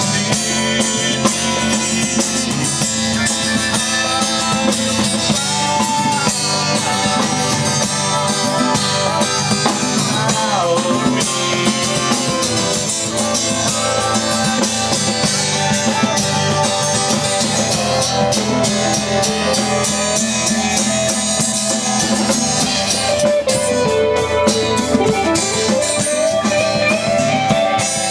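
Live band playing an instrumental rock jam, with guitars over a drum kit.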